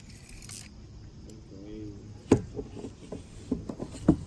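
A sharp knock about two seconds in, followed by a series of lighter knocks and taps, with a brief low hum just before the first knock.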